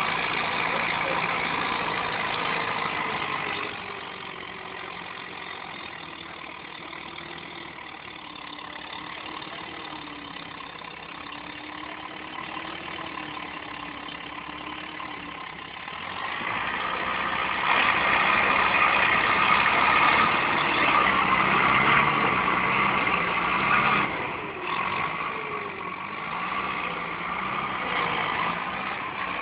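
Tractor engine running, its pitch wavering slowly up and down. It gets much louder about halfway through, then drops briefly a few seconds before the end.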